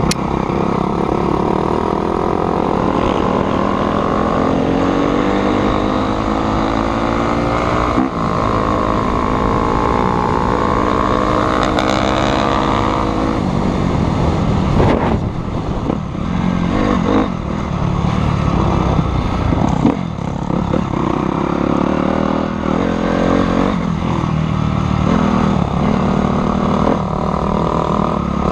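Motocross dirt bike engine running hard, its pitch climbing through long rises and dropping back at each shift, then going up and down more choppily in the second half.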